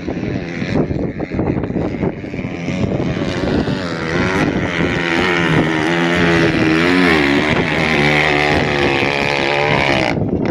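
Off-road vehicle engine running under throttle, its pitch rising and falling as it revs, with wind buffeting the microphone; the sound stops abruptly near the end.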